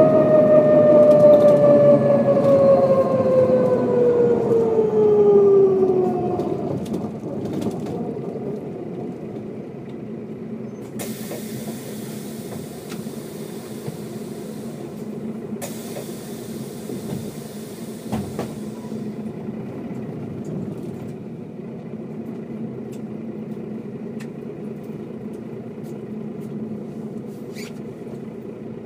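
Mercedes-Benz O407 bus slowing down, its drivetrain whine falling steadily in pitch for about six seconds before settling into a steady low diesel running sound. Partway through come two long hisses of compressed air from the bus's air system, a few seconds each with a short break between.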